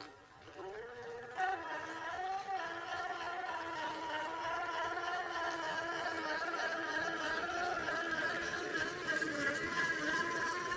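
Whine of a 1/10-scale RC crawler's electric motor and geartrain, an RC4WD Trail Finder 2 driven by a Hobbywing Fusion motor, its pitch rising and dipping slightly as it crawls.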